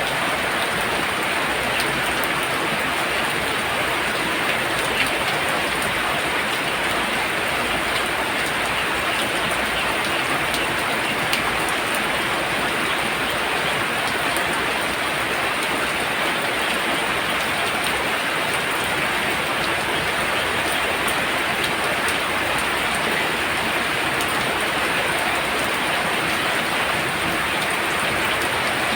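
Very heavy rain pouring down in a steady, even hiss, with a few faint drop ticks standing out here and there.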